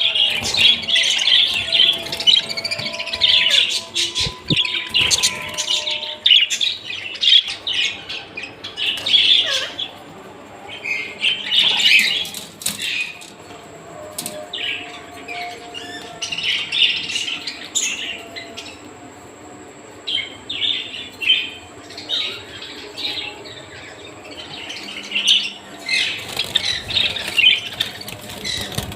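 Parrots chirping and squawking in bursts of busy, high-pitched chatter, with quieter spells between the bursts.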